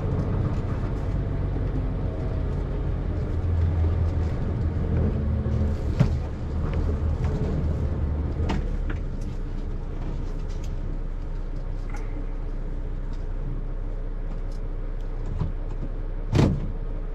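Isuzu FRR cab-over truck's 7.8-litre turbo diesel running with a low rumble, heard from inside the cab as the truck rolls slowly over speed bumps. A few sharp knocks and rattles come as it jolts, the loudest near the end.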